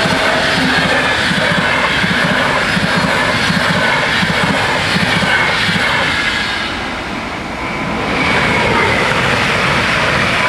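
Intercity train coaches rushing past at speed, wheels clacking in a steady rhythm; the noise eases briefly as the last coach clears, then rises again as a Stadler FLIRT electric multiple unit rolls past.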